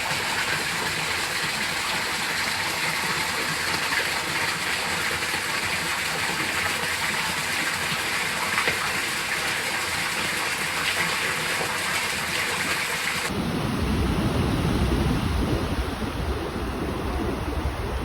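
Steady hiss of rushing water. About thirteen seconds in it cuts abruptly to a low, buffeting rumble of wind on the microphone over surf.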